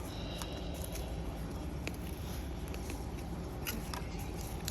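Bare hands digging and scraping through garden soil while feeling for sweet potatoes, with a few faint scratches and clicks over a steady low background rumble.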